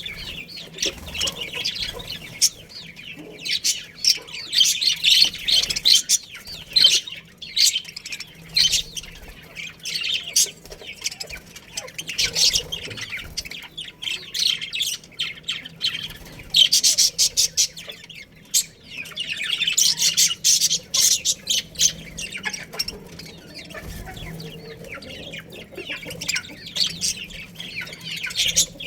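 Budgerigars in a colony chirping and chattering: dense, overlapping high chirps in bursts that swell and fade every few seconds.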